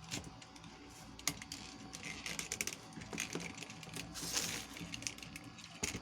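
Irregular light clicks and taps with bursts of rustling, typical of plastic toys and their packaging being handled.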